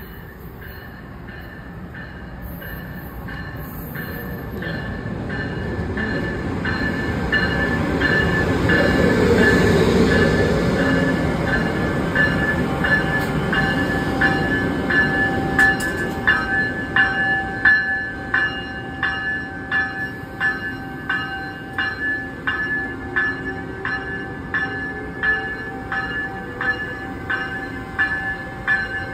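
Amtrak Northeast Regional passenger train arriving and passing close by. Its rumble builds as it approaches, then it runs past with a steady high whine and a regular clickety-clack of wheels over rail joints, about two beats a second.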